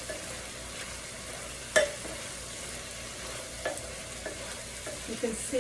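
Chicken and vegetables sizzling in an electric skillet as a wooden spatula stirs them, with sharp knocks of the spatula against the pan, the loudest a little under two seconds in and another near four seconds.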